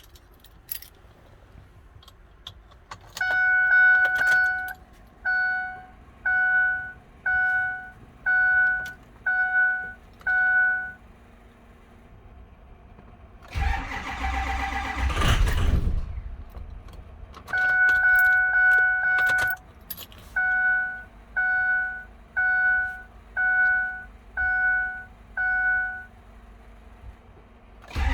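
A Ford 6.0 Powerstroke diesel pickup's dash chime dings at an even pace, one long tone and then a run of short dings. About halfway through, the starter cranks the engine for about two seconds without it catching, a hard cold start on bad injectors. Then the chime sounds again.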